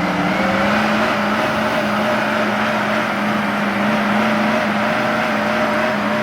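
Off-road 4x4 vehicle's engine held at high, steady revs.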